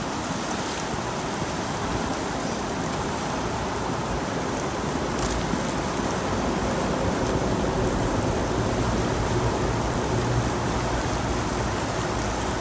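Steady rushing noise of wind and flowing river water. It swells slightly, with a low rumble, in the middle.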